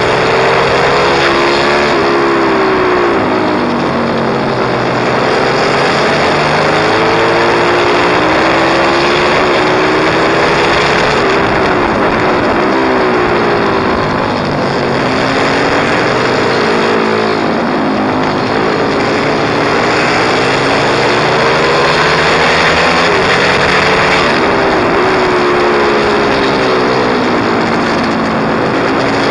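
Pit bike engine being ridden hard, its note climbing under throttle and falling back over and over. A steady hiss runs underneath.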